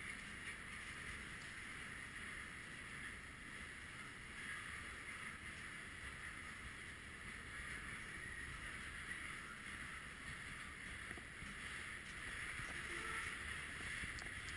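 Covered hopper cars of a freight train rolling steadily past: a continuous noise of steel wheels running on rails, with no distinct clunks or horn.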